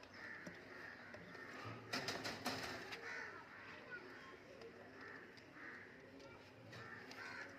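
Birds calling over and over, with a quick run of sharp clicks about two seconds in.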